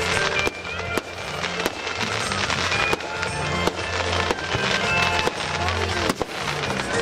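Fireworks bursting in a series of sharp bangs, roughly one every second, over music with a bass line that changes note.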